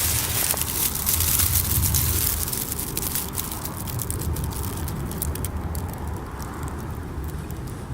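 Small wood campfire burning, with many sharp crackles and pops over a steady low rumble; the hiss is brightest in the first few seconds.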